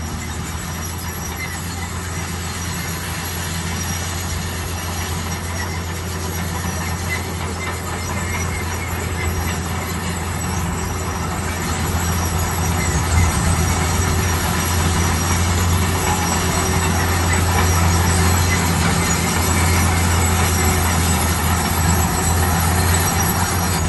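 Crawler bulldozer running, a steady low diesel drone with squealing from its steel tracks, slowly growing louder.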